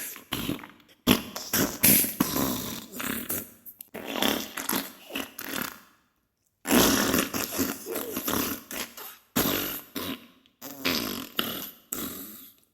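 Diarrhea sound effect: a run of irregular, spluttering fart bursts, with a brief silent break about halfway through.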